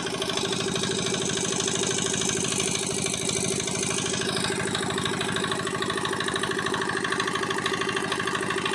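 Small single-cylinder diesel engine (4 hp China 180-type) running steadily with a fast, even beat of firing strokes. It has caught and keeps running after a start.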